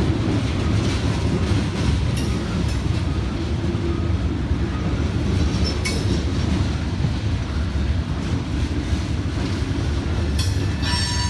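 Freight cars of a coal train rolling past: a steady rumble of wheels on rail, with a few short sharp clicks and clanks now and then.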